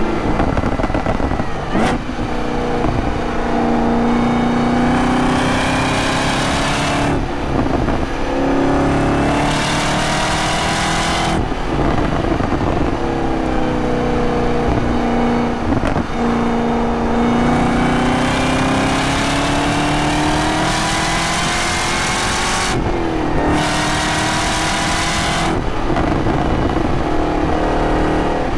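Camaro ZL1's supercharged 6.2-litre V8 under way. The revs climb repeatedly and fall once, with several short breaks in the note as the driver shifts gears on the manual gearbox.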